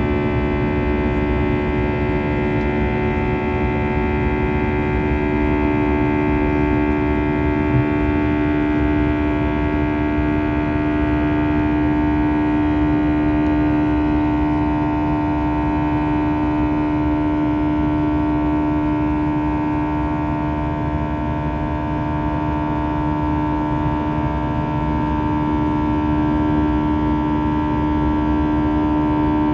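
Cabin noise inside an Airbus A320 with its jet engines running at steady power: a constant hum made of several steady tones over a low rushing noise.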